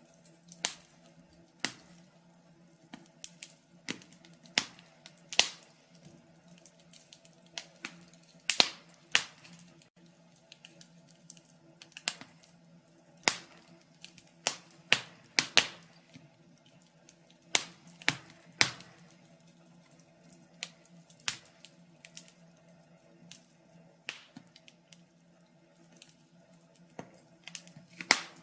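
Wood fire crackling: irregular sharp pops and snaps of burning logs, some louder than others, over a faint steady low hum.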